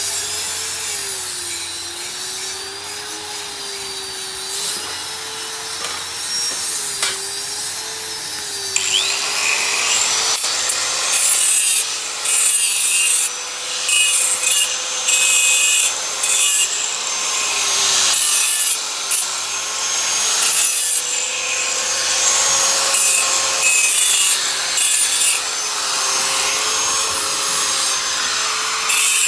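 A power tool running with a steady, slightly wavering whine, joined from about nine seconds in by repeated loud bursts of harsh high hiss, each about a second long, as it works on the material.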